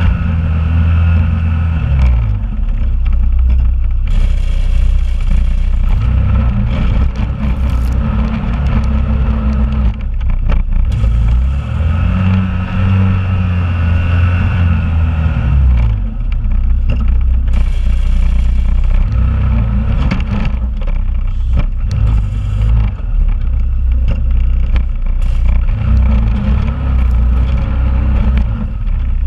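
2001 Honda Rubicon ATV's single-cylinder engine running hard while plowing snow, its engine speed climbing and falling several times as it pushes and backs off. Occasional short knocks and rattles.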